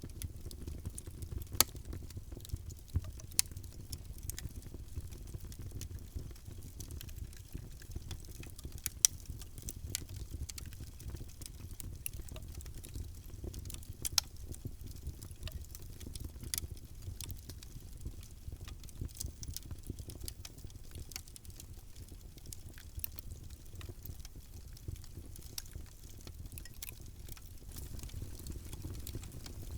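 Wood fire in a fireplace crackling: irregular sharp pops and snaps over a low, steady rumble of burning flames, with a few louder pops in the first ten seconds.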